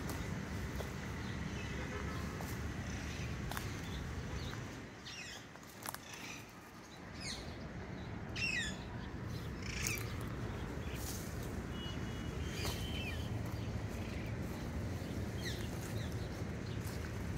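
Birds chirping in scrub forest, with several quick falling chirps around the middle and a short trill a little later, over a steady low rumble.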